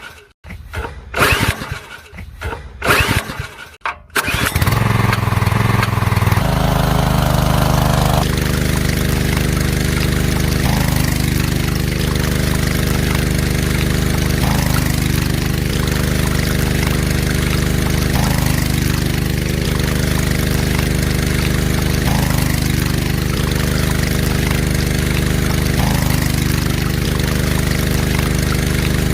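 Small engine, likely that of the miniature model tractor, firing in several short bursts over the first four seconds, then catching and running steadily.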